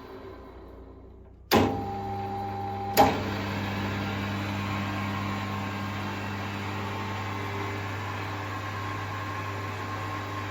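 Emco Maximat Super 11 geared-head lathe, driven by a three-phase two-speed motor, dying away, then switched on with a sharp click about a second and a half in. Its motor and gearhead then run with a steady hum, with another sharp click about three seconds in.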